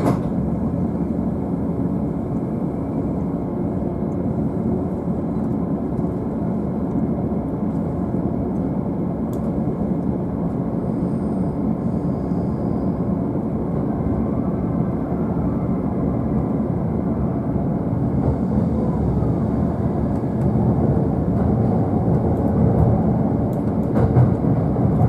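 JR East E531 series electric train running, heard from the upper deck of its double-decker Green car: a steady rumble of wheels and running gear that grows a little louder in the last few seconds.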